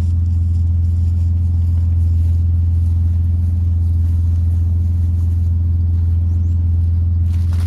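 Pickup truck engine running steadily: a loud, even low drone.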